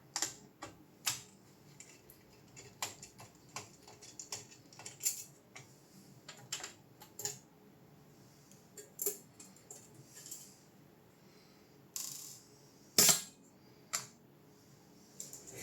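Irregular small clicks and taps of hard parts and tools being handled, with one louder sharp click near the end.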